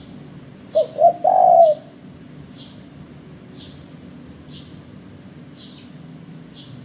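Spotted dove cooing once, about a second in: two short notes and then a longer, rolling note. Short high chirps repeat about once a second throughout.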